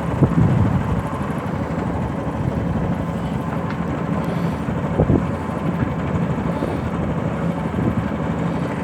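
A ferry's engine running steadily, a continuous low hum and rumble under the moving boat.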